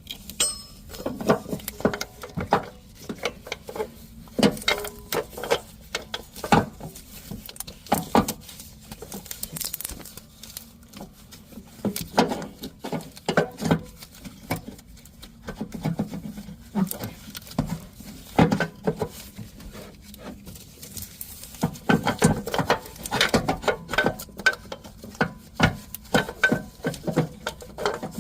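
Irregular clicks, clinks and knocks of hand tools and metal parts being handled while the engine's accessory-drive parts are reinstalled.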